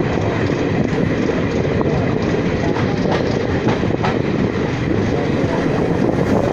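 Garib Rath Express passenger train running at speed: a steady rumble of wheels on track, with a few clacks over rail joints.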